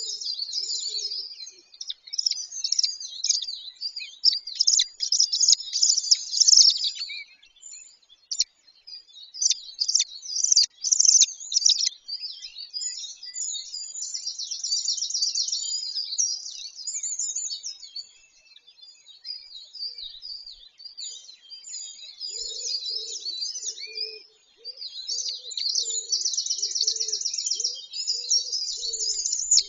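Several small songbirds chirping and trilling over one another, with rapid buzzy trills at times. A lower call is repeated about once a second during the last few seconds.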